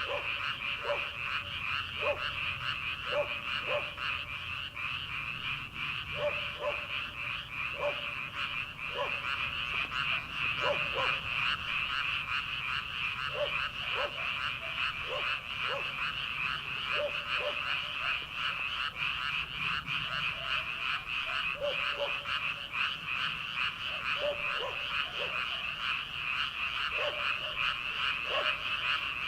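Chorus of many rice-paddy frogs calling at once: a dense, continuous high chorus, with separate lower croaks repeating about once a second over it.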